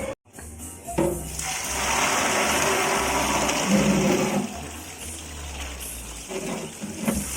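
Water gushing and splashing in a loud rush that swells about a second in and falls back a few seconds later, as in the wet soybean-skinning step of tempe making.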